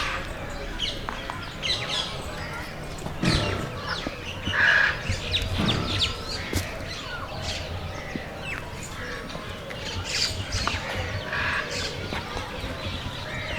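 Many birds chirping and squawking at once, in short irregular calls, with one louder call about four and a half seconds in.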